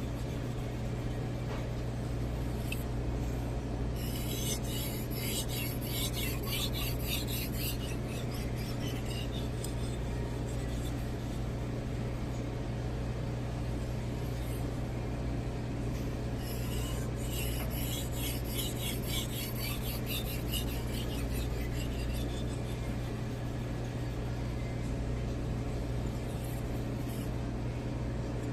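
Knife blade stroked quickly back and forth on a Shapton Glass 2000 whetstone, a run of rasping scrapes twice, with pauses between. A steady low hum lies under it.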